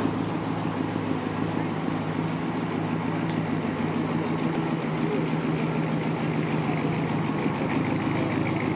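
Old Chevrolet sedan's engine running steadily at low revs as the car rolls slowly up, an even low engine note that does not rise or fall.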